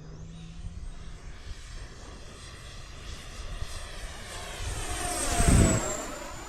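Freewing F-22 Raptor RC jet's 70mm electric ducted fan whining in flight. It grows louder as the jet makes a close pass, peaks about five and a half seconds in, then falls slightly in pitch as it moves away.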